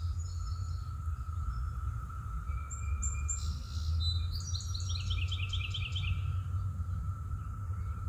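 Songbird singing outdoors: a few short high chirps, then a quick run of repeated notes stepping down in pitch, ending a little after six seconds in. Underneath runs a steady low rumble and a faint steady high hum.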